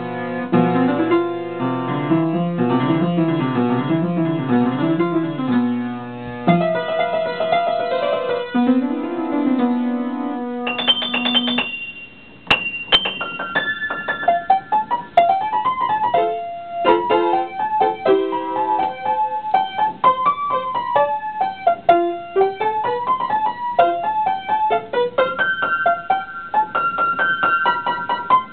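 Solo piano piece. It opens with rolling figures in the low register, moves to held chords, and after a short pause about twelve seconds in turns to repeated high notes over rising and falling runs in the middle range.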